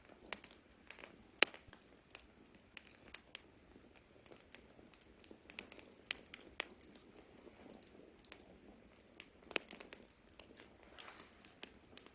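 Wood campfire crackling, with frequent irregular sharp pops.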